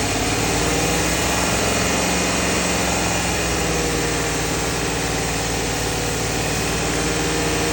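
Infiniti QX80's 5.6-litre V8 running steadily with the revs held up.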